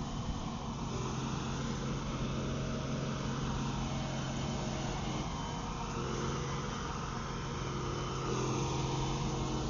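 An engine running steadily, a little louder near the end.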